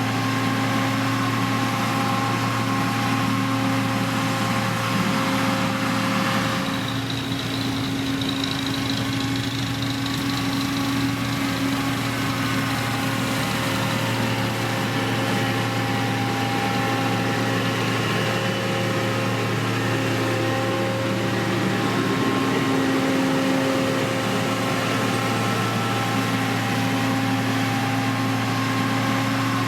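Diesel engine of heavy road-building machinery running steadily at a constant speed. A faint high whine comes in for a few seconds about seven seconds in.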